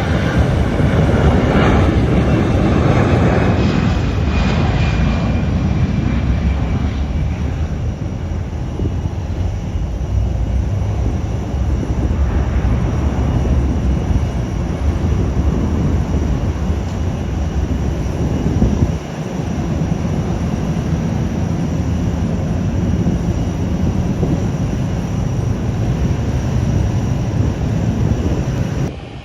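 Airliner engines running loud, a steady low rumble with a faint whine that falls in pitch over the first few seconds.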